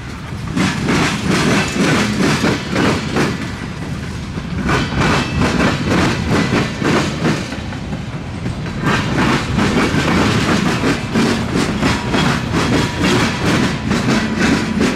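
Freight cars (tank cars, covered hoppers and boxcars) rolling past, their wheels clacking over rail joints in repeated groups of clicks over a steady rumble. It dips slightly about four and eight seconds in.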